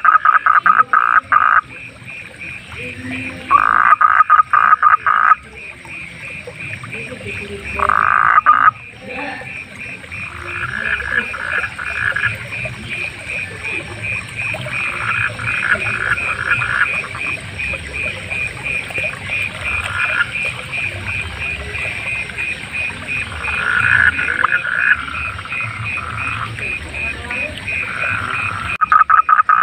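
Frogs calling in chorus. Loud rattling croak bouts, each a second or two long, come three times in the first nine seconds. Then a steady, fast, even series of higher calls runs on with fainter croak bouts over it, and the loud croaks start again abruptly near the end.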